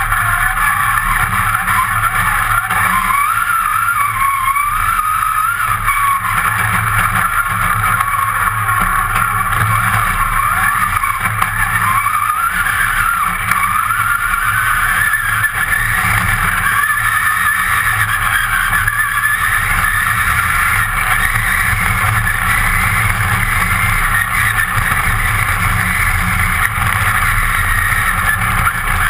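Competition car's engine running hard, heard from inside the stripped, roll-caged cabin, its note rising and falling with throttle and gear changes, over tyre noise on loose ground.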